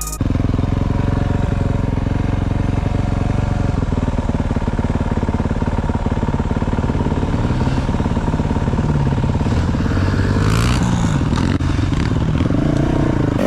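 Dirt bike engine running steadily while riding, the revs rising and falling several times near the end.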